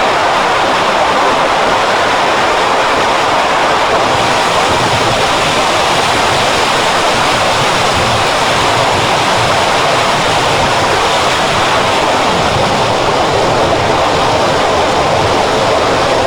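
Loud, steady rushing noise with no pitch or rhythm, like heavily processed audio. It holds unchanged throughout.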